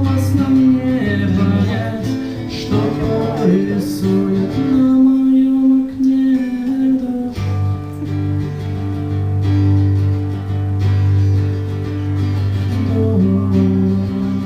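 Live acoustic guitar music: an instrumental passage of the song with no sung words, guitars playing sustained chords over a low bass line that enters strongly about halfway through.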